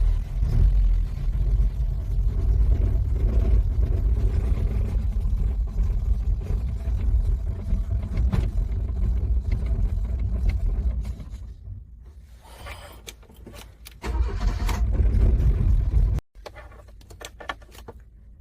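Car engine being cranked over by its starter in freezing cold without catching. One long crank runs about eleven seconds and stops. After a short pause, a second brief crank cuts off suddenly.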